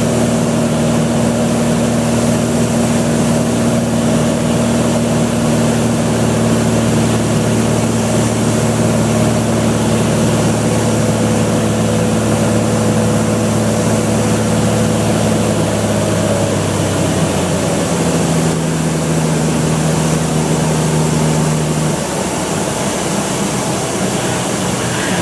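Cessna 182's six-cylinder piston engine and propeller running steadily. The pitch steps down about two-thirds of the way through and again near the end, where it also gets a little quieter, as power is reduced.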